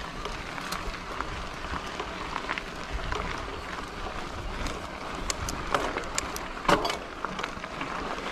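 Mountain bike riding over a rough trail: steady tyre and rolling noise with scattered rattles and clicks.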